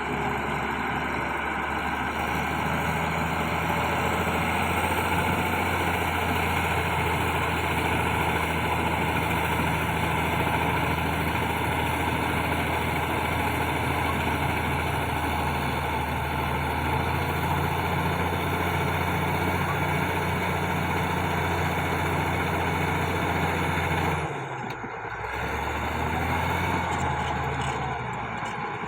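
Bulldozer diesel engine running steadily with a low drone. The sound drops briefly and shifts about 24 seconds in.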